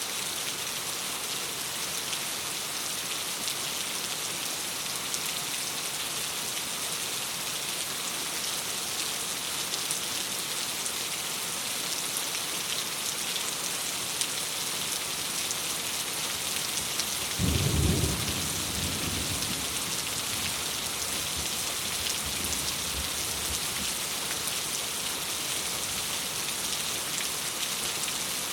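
Steady rain pattering against a window, with one low rumble of thunder about two-thirds of the way through that swells and fades over a couple of seconds.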